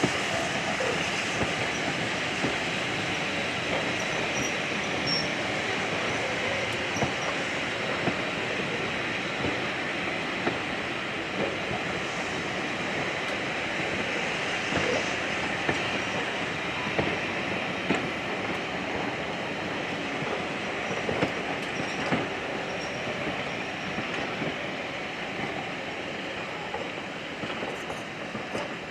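Railway train rolling past over the track, its wheels clicking and knocking on the rails at irregular intervals over a steady rumble, easing off slightly near the end.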